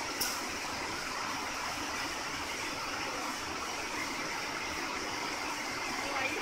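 Long-arm double-needle filter bag sewing machine running steadily, giving an even whirring hiss, with a single sharp click just after the start.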